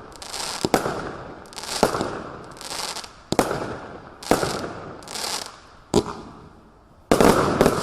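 81-shot consumer firework barrage cake firing its shots about once a second, each sharp launch bang followed by a fading hiss. About seven seconds in, several shots go off in quick succession.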